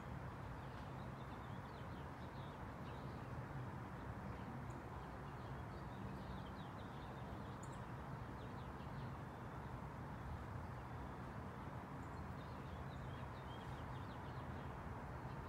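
Small birds chirping in short, scattered notes over a steady background rumble.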